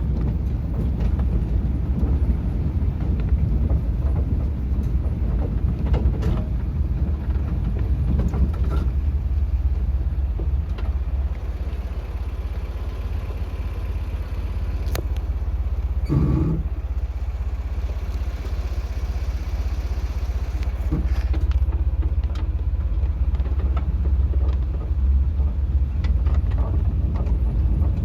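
Steady low rumble of a car on the move, engine and road noise, with scattered small knocks and rattles and one brief louder sound about 16 seconds in.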